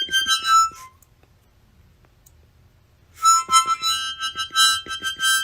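Harmonica playing: a short run of held notes, a pause of about two seconds, then more notes held and repeated.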